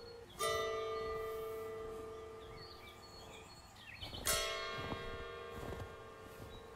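A bell tolls twice, about four seconds apart, each stroke ringing on and fading slowly. Faint bird chirps sound in between.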